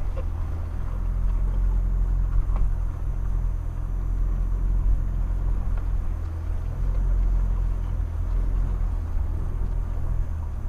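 Mitsubishi Pajero Sport's engine running with a steady low drone, heard from inside the cabin while driving.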